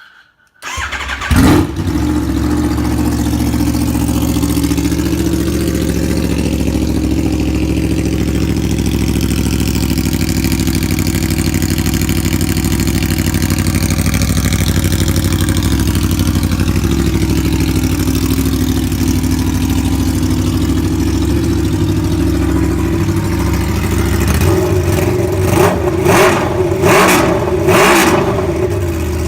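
A 2012 Aprilia Tuono's V4 engine, with its exhaust pipe removed, starts about a second in and idles steadily and loud. Near the end it is blipped in a few quick revs.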